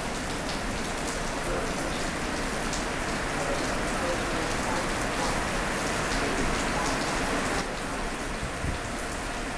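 Light rain falling steadily on a wet platform and track, with scattered sharp drop hits close by.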